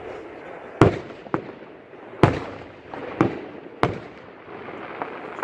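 Fireworks shells bursting in a display: about five sharp bangs in five seconds at uneven spacing, the loudest about a second in and just after two seconds, each trailing off briefly, over a steady background noise.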